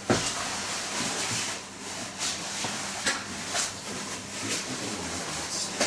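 Local train running along the line, heard from the front of the train: a steady running rumble and hiss with irregular sharp clicks and knocks.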